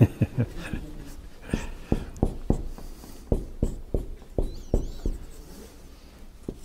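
Dry-erase marker writing on a whiteboard: a quick run of taps and knocks, about three a second, as letters are stroked onto the board, with a faint squeak about four and a half seconds in.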